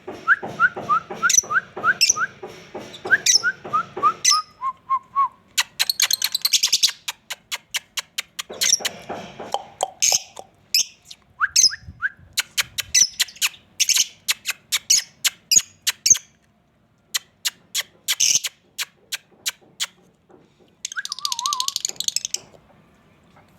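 Small parrots calling: many sharp short chirps and clicks, with a quick run of chirps over the first few seconds and several harsh screechy bursts.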